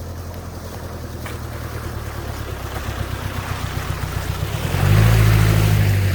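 Jeep Cherokee XJ's 2.5-litre VM Motori four-cylinder turbo-diesel engine running under load off-road. About five seconds in it grows louder as it takes more throttle, and a rushing noise builds near the end.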